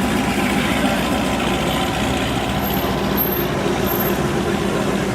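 A truck's engine running steadily, with a constant low hum.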